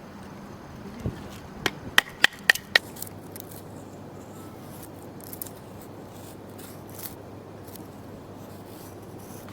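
A dull thud, then a quick run of five sharp knocks, about four a second, each with a short ring, followed by a few faint clicks.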